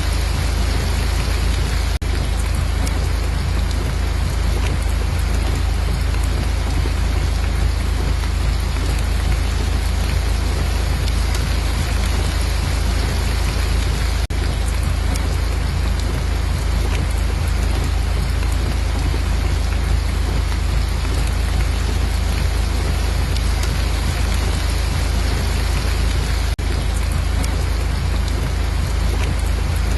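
Steady rain, an even dense hiss with a constant low rumble underneath, briefly dipping a few times.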